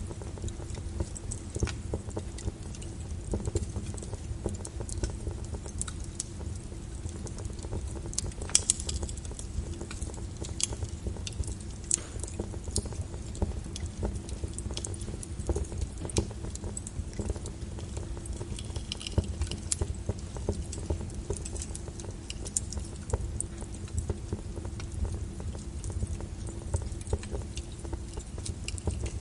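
Wood fire burning in a fireplace, crackling with many scattered sharp pops over a steady low rumble of the flames; the sharpest pops come about 8 and 12 seconds in.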